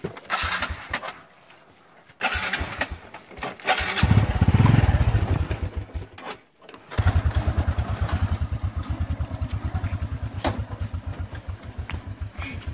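Small single-cylinder four-stroke engine of a Honda underbone motorcycle labouring up a steep, muddy, rocky trail. It revs hard about four seconds in, drops out briefly, then settles into a steady, fast low putter.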